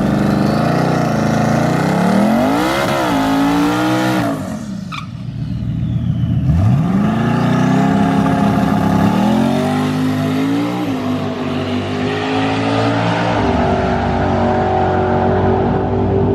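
High-powered twin-turbo V8 drag car engine revving hard, its pitch climbing and falling. The engine briefly drops off about four to five seconds in, then climbs steeply again and pulls on in a loud steady drone.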